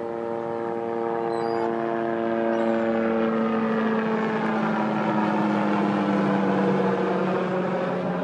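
An engine passing by: a steady droning hum whose pitch falls slowly, growing louder to a peak about two-thirds of the way through and then easing.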